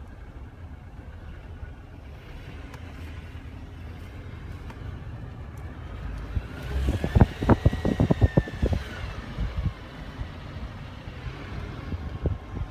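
Steady low rumble with a faint whistle that rises and then falls in pitch about halfway through; the uploader takes it for possibly the whistle of a turbine. A quick run of low knocks or buffets comes at the same time as the whistle.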